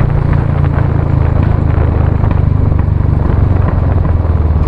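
2019 Royal Enfield Classic 350's single-cylinder engine running on the move, its exhaust note a steady, rapid low beat.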